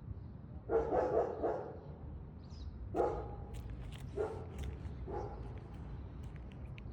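A dog barking: a quick run of barks about a second in, then three single barks about a second apart.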